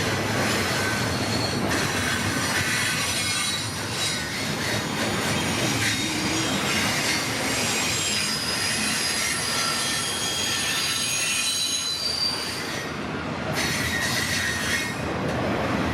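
A CPKC freight train's grain and mixed cars rolling past close by, a steady rumble of wheels on rail with shifting high-pitched wheel squeal over it.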